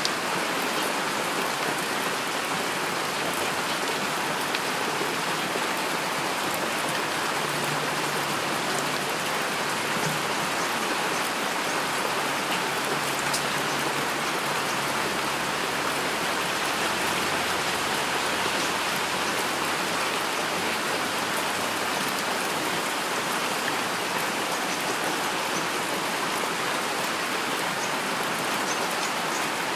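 Steady heavy rain falling on a surface: a dense, even hiss with fine drop ticks. A faint low rumble sits underneath for about ten seconds in the middle.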